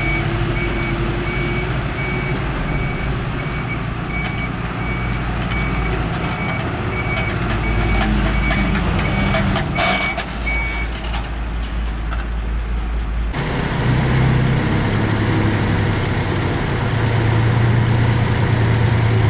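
Heavy machine's reverse warning alarm beeping at an even pace over a low diesel engine rumble. The beeping stops about eleven seconds in, and the engine sound then changes abruptly.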